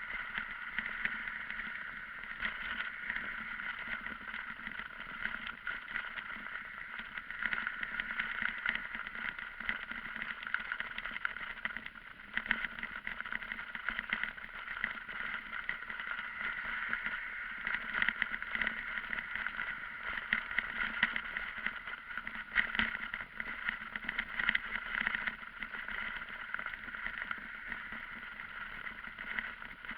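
Steady wind and road noise of a moving ride, with small flickers of rattle.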